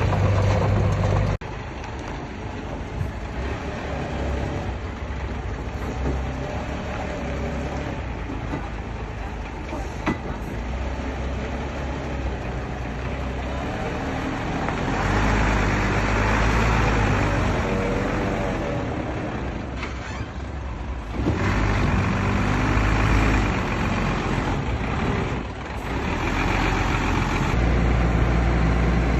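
Diesel engines of a bulldozer and dump trucks running and working, with a deep engine rumble that rises and falls with load. The sound changes abruptly a few times along the way.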